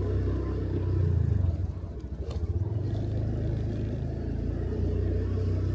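Motorcycle engine running while riding, a low steady pulsing; it eases off briefly about two seconds in, then picks up again.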